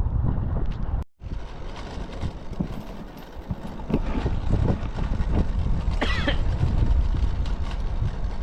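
Strong typhoon wind buffeting the microphone as a low, rough rumble, with a brief cut to silence about a second in.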